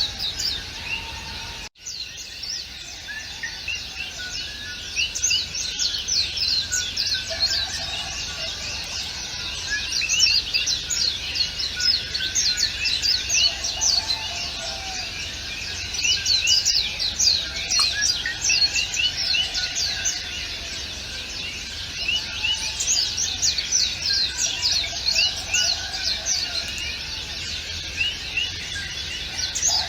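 A dense chorus of many small birds chirping and twittering, with rapid short high calls overlapping throughout. The whole sound cuts out for an instant about two seconds in.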